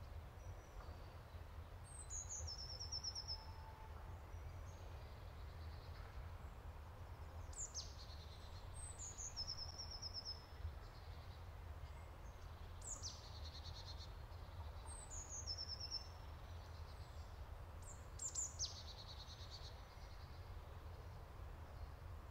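A songbird singing the same short phrase several times, each starting high, dropping in pitch and ending in a quick trill, over a low steady rumble.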